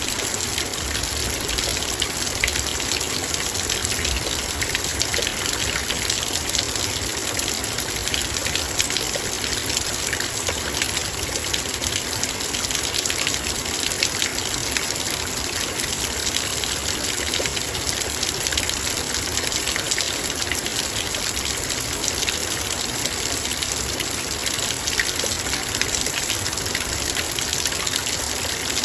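Heavy rain falling steadily, its drops ticking sharply and constantly on a metal bowl.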